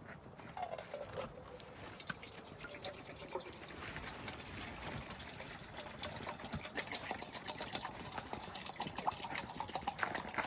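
Food cooking in a pot or pan on the stove: liquid bubbling and sizzling in a dense crackle of fine pops that grows a little louder in the second half.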